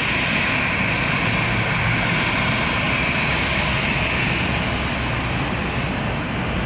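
Bombardier Dash 8 Q400 turboprop's Pratt & Whitney PW150A engines running steadily, a high whine over a low rumble.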